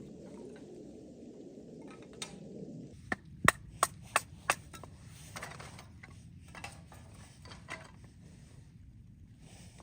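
Wood being struck: a quick run of about five sharp knocks starting about three seconds in, then a few fainter, spaced-out knocks. A low steady noise comes before them and stops as the knocks begin.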